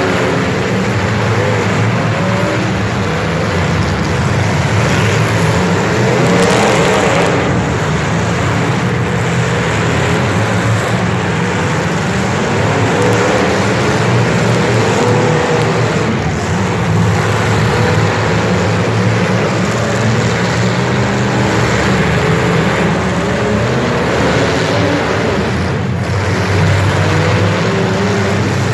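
Motor vehicle engines running continuously, a steady loud drone whose pitch wavers up and down.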